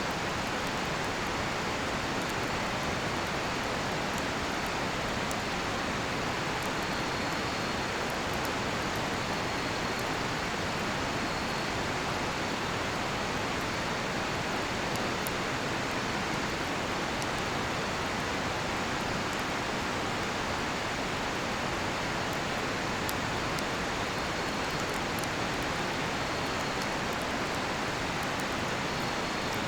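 Steady rushing of a nearby river, with faint high cricket trills coming and going from about seven seconds in, and a few light crackles from a cedar-wood campfire.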